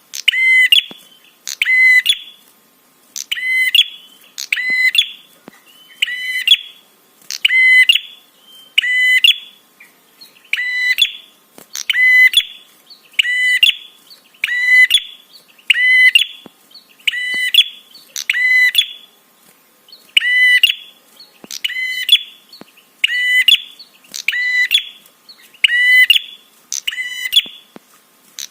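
Prenjak (prinia) 'trapi' call: a short, sharp chirping phrase repeated about once a second in an unbroken series.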